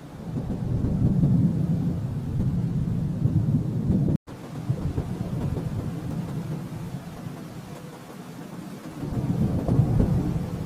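Rolling thunder: a low rumble swells in at the start, drops out for an instant about four seconds in, eases off, then rumbles up again near the end.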